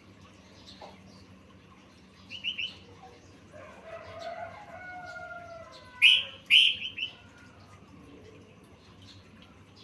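Songbird calls from a yellow-vented bulbul 'masteran' training recording mixed with filler birdsong: a quick run of chirps about two seconds in, a warbling phrase, then the loudest chirps about six to seven seconds in. A faint steady hum runs underneath.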